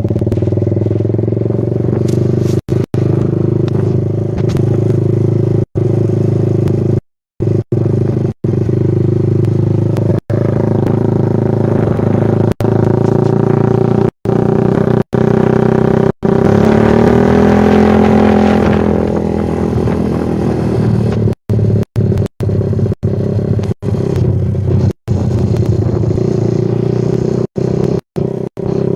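Yamaha Vixion's single-cylinder engine running through a Kou Mahachai aftermarket exhaust, revving up and back down once about midway. The sound is broken by many brief, sudden silent gaps.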